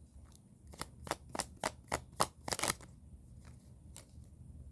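Tarot cards being shuffled by hand: a quick run of about eight sharp card slaps and clicks over roughly two seconds, followed by faint handling.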